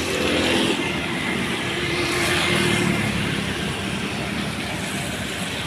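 Loaded dump truck driving past, its engine running and its tyres hissing on a wet road surface, loudest about two to three seconds in.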